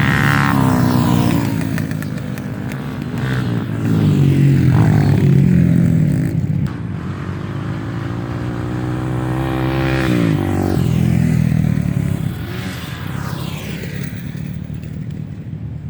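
Dirt bike engines revving up and down, the pitch rising and falling several times as the bikes pass.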